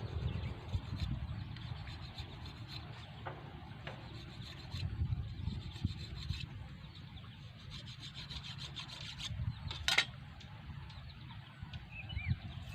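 Knife shaving a bamboo stick: irregular scraping strokes with scattered clicks, and one sharp click about ten seconds in.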